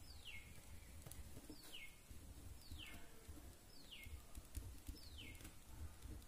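A bird calling faintly, a short falling chirp repeated about five times, roughly once a second.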